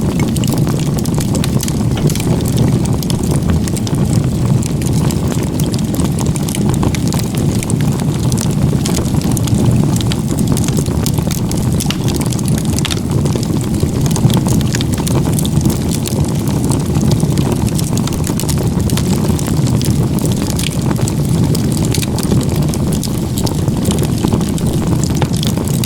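Firewood burning hard in a log-cabin (igeta-gumi) stack: a steady low rush of flames with frequent sharp crackles and pops of the burning wood.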